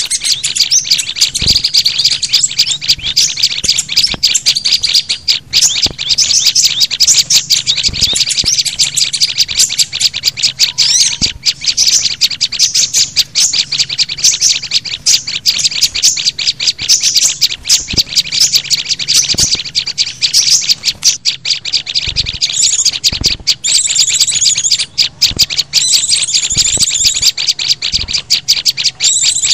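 A mix of small songbird calls played as a bird-luring track: a dense, unbroken run of rapid, high-pitched chirps and twitters.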